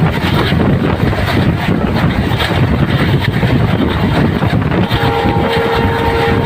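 Train running along the track: a loud, steady rumble and rushing noise. About five seconds in, a faint steady high tone joins in.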